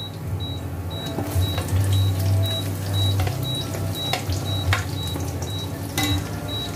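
Garlic sizzling in hot oil in a stainless steel wok as sliced onions are tipped in and stirred, with a few sharp knocks of the spoon against the pan over a steady low hum.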